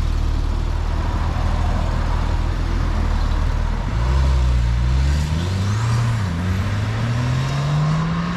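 Car engine idling steadily, then about halfway through it speeds up and the car accelerates, its pitch rising steadily to the end.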